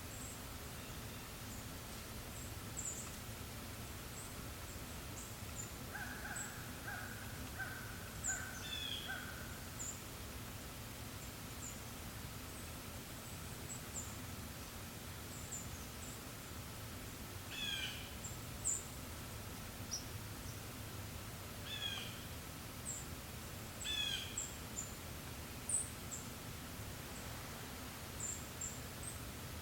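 Forest birds calling over a steady breeze. Short high chirps come throughout, with a run of about five lower repeated notes a few seconds in. Several sharp calls drop steeply in pitch in the second half.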